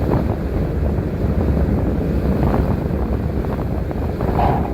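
Transit bus driving, a steady low rumble of engine and road noise heard from inside the cab. A short higher-pitched sound comes near the end.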